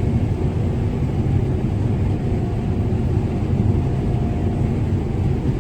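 Combine harvester running steadily while harvesting corn: a constant low machine drone with a faint steady whine above it.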